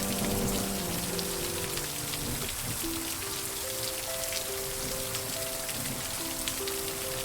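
Steady rain falling, with many small drops ticking, under slow, soft music of long held notes.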